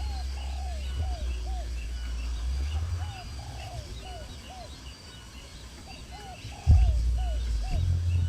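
A bird calling in three repeated phrases of about four short down-slurred notes, with fainter high chirps from other small birds behind it. A low rumble comes and goes, and a sharp thump sounds a little before the end.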